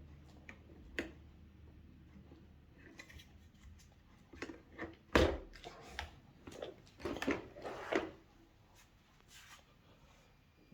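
Plastic vacuum cleaner parts being handled and fitted together: scattered clicks and knocks, the loudest about five seconds in and several more close together around seven to eight seconds.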